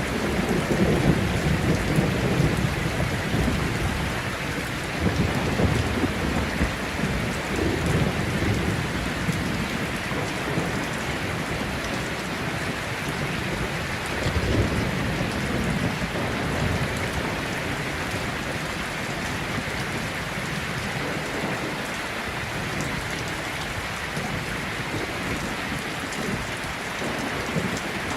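Heavy rain falling steadily, with thunder rumbling low underneath in the first several seconds and again about halfway through, then easing to rain alone.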